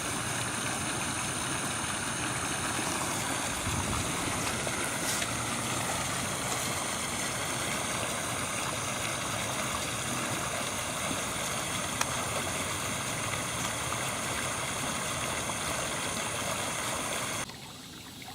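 Steady rush of floodwater flowing, with a steady high-pitched drone over it. It cuts off abruptly near the end.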